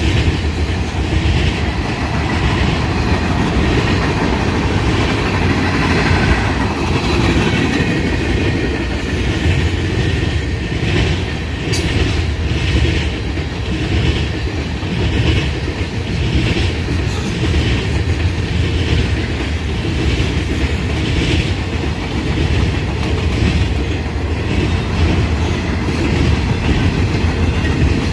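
Freight train rolling past, a steady loud rumble with a rhythmic clickety-clack of wheels over rail joints. A single sharp click about twelve seconds in.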